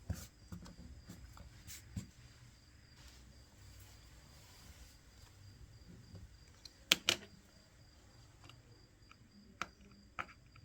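Faint, scattered clicks and taps of small phone parts and tools being handled on a workbench during reassembly, with a sharper double click about seven seconds in.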